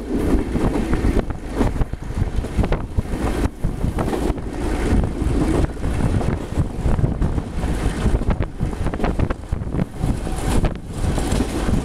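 Passenger train running at speed, heard from on board: a steady rumble of wheels on the rails with irregular knocks, and wind buffeting the microphone.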